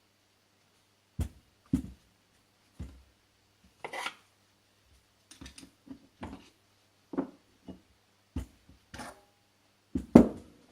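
Metal turbocharger parts and tools handled on a workbench: about a dozen separate knocks and clinks at irregular spacing, the loudest near the end.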